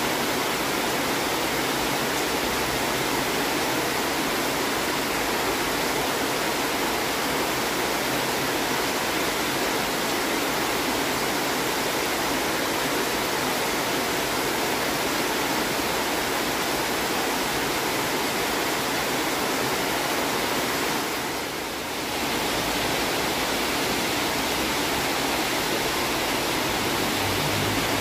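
Monsoon rain falling steadily, an even hiss that dips briefly about three-quarters of the way through.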